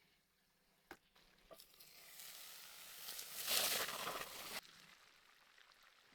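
A click, then a hiss that builds for about three seconds and cuts off suddenly.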